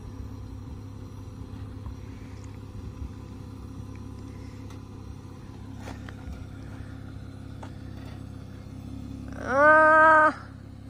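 Jeep Wrangler Willys engine running low and steady as the Jeep crawls slowly over trail rock, with a few faint clicks. Near the end a person calls out once, a held note lasting about a second that is the loudest sound.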